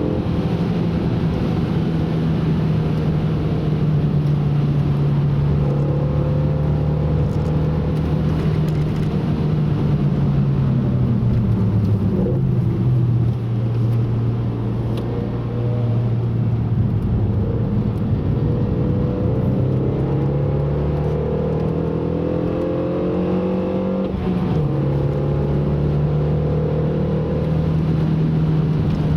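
Car engine under way on a lap of a race circuit, holding steady revs, easing off and dropping in pitch about twelve seconds in, then climbing again with a sharp drop in revs near the end that marks an upshift.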